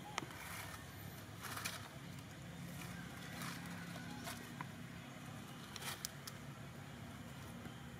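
Faint bird calls over quiet outdoor ambience, with a few brief light clicks and rustles.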